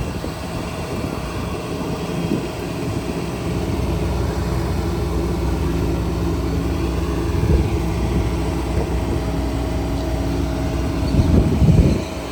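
Engine running steadily with a low hum, getting louder about three and a half seconds in, with a brief louder surge near the middle and a longer one shortly before the end.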